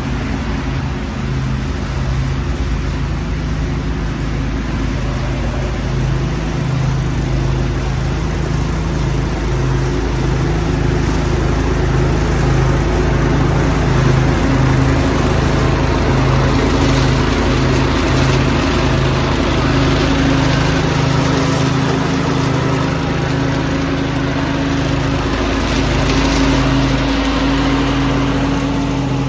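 Small engine running steadily while leaves are vacuumed, with a broad rushing, hissing air noise over the engine hum that swells briefly a couple of times.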